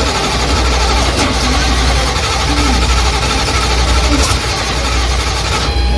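A car engine running with a steady deep rumble and a few sharp cracks.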